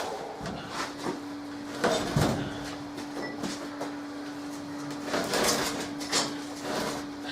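A heavy wooden anvil stump being manhandled and shifted: irregular scrapes and knocks, with a heavy thud about two seconds in.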